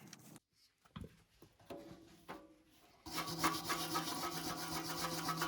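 A few separate knocks, then about three seconds in a small motor starts with a steady hum under a dense rasping scrape, like a power tool grinding or abrading metal.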